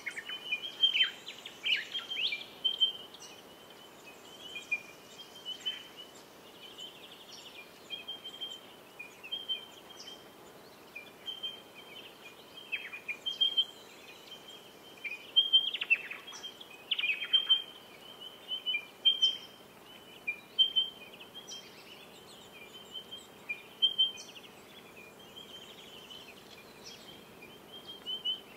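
Birds singing and calling: a steady run of short, high chirps throughout, with louder downslurred calls now and then.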